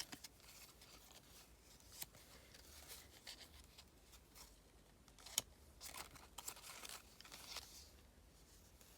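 Faint rustling and crinkling of a packet of paper die-cuts being handled, with scattered small clicks and one sharp tick about five seconds in.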